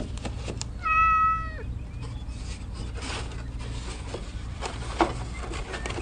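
A cat meows once, briefly, about a second in. Light taps and rustles of stiff cardboard being handled and pressed into place run around it, with a sharper tap about five seconds in.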